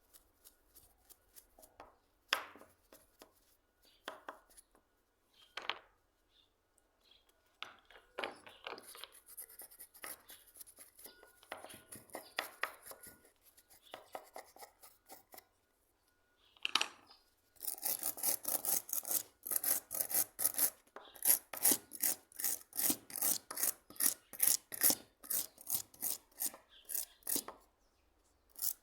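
Scattered scrapes and knocks, then from about halfway in a steady run of rhythmic abrasive strokes, about two to three a second: a metal hand-plane part being rubbed down by hand during restoration.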